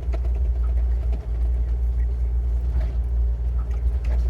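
Bobcat compact excavator's diesel engine running with a steady low drone.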